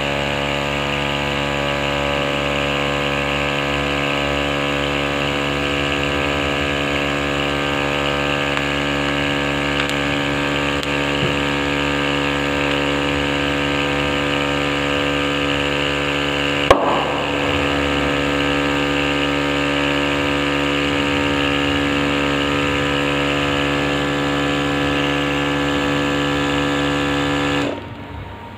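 A small engine or motor running steadily at a constant speed, with one sharp click about 17 seconds in; the running sound cuts off abruptly near the end.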